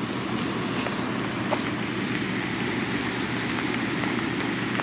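Steady rain mixed with fast-running river water below a dam spillway, with a few faint taps close to the microphone.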